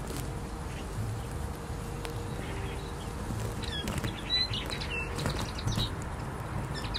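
Small birds chirping in short, quick high notes from about halfway through, over a steady low background rumble.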